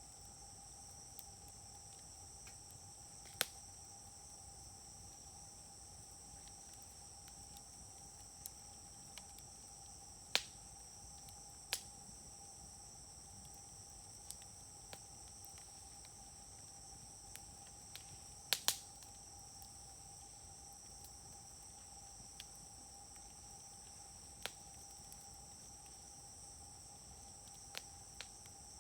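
Wood fire burning in a campfire grill, giving off sharp isolated pops and snaps every few seconds, one a loud double pop past the middle. Insects trill steadily behind it.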